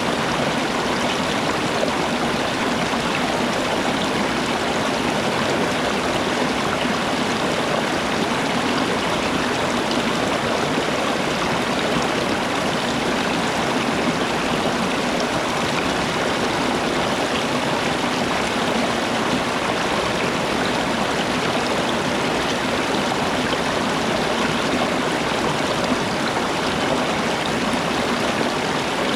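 A stream of water running steadily over rocks, a constant rushing sound that does not change.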